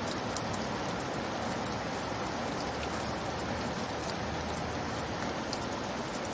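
Steady light rain falling, an even hiss with a few faint drop ticks.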